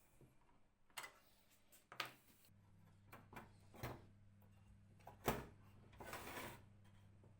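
Sparse sharp clicks and knocks, as of small metal parts being handled, with a short rustle near the end. A steady low electrical hum starts about two and a half seconds in.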